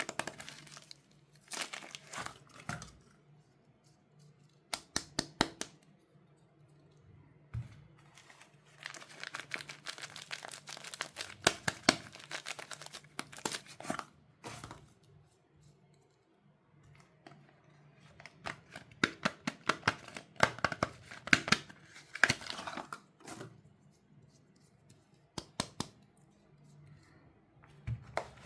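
Soap-bar wrappings being torn open and crinkled by hand, in stop-start bursts of tearing and crackling with short pauses between them.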